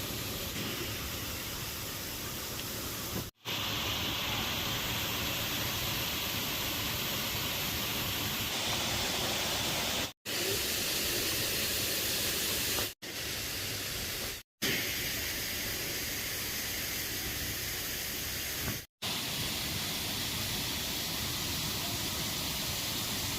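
Steady rushing of a waterfall, cut off by a brief silent gap five times.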